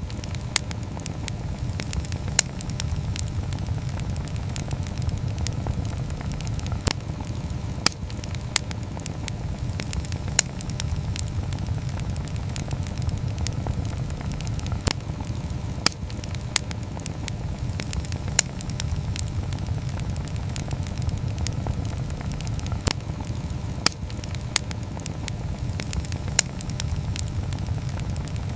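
Wood campfire burning: a steady low rumble of flames with sharp, irregular crackles and pops every second or two.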